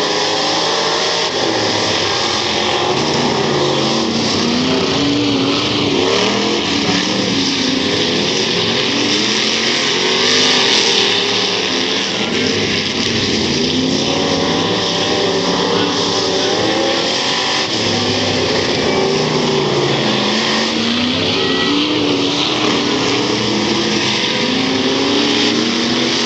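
Several dirt-track stock car engines racing together, their pitch rising and falling again and again as they rev up and ease off.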